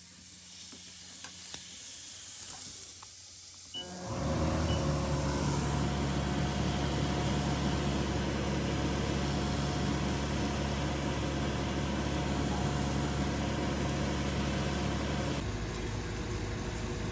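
A steady machine hum with hiss. It starts suddenly about four seconds in after a fainter hiss, and shifts in tone near the end.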